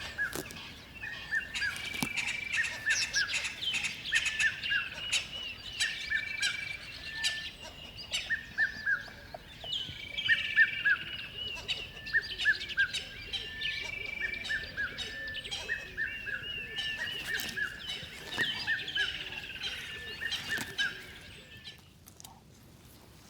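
Many birds chirping and calling together: rapid, repeated short chirps and whistles overlapping throughout, dying away near the end.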